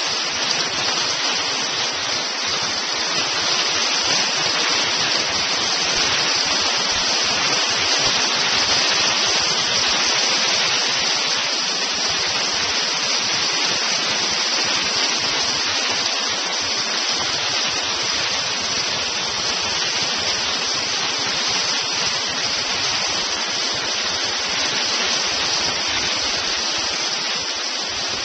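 Hailstones falling hard, countless small hits merging into a dense, steady clatter and hiss.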